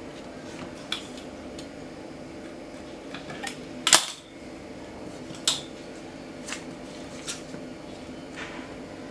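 A few light clinks and knocks of kitchen utensils and dishes, the loudest about four seconds in, over a steady low hum.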